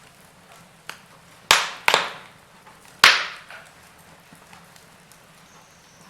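Wood fire crackling, with four sharp pops, the loudest about three seconds in, over faint small crackles.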